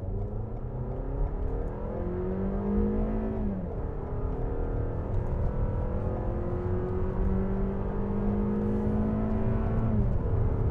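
The Toyota RAV4 Adventure's 2.5-litre four-cylinder engine accelerating hard to 100 km/h. Its pitch rises, drops at an automatic upshift about three and a half seconds in, climbs slowly again, and drops at a second upshift near the end.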